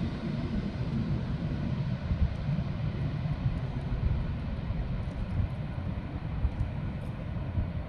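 Jet aircraft engines: a steady low rumble with no clear pitch.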